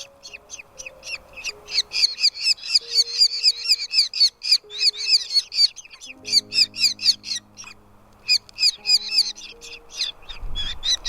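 Nestlings calling to be fed: fast, shrill repeated chirps, many per second, with a short pause late on. Soft background music with held notes plays underneath.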